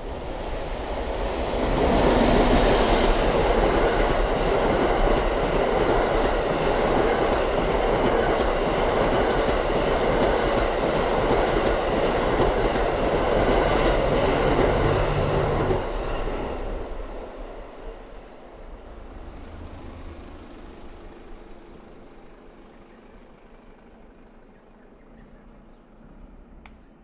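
A train passing on the line: the running noise swells in about two seconds, stays loud with the clickety-clack of wheels over rail joints for some fourteen seconds, then drops away and fades as it recedes.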